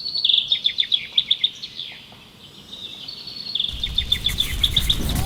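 A songbird singing in quick phrases of high chirps and trills. A low rumble comes in near the end.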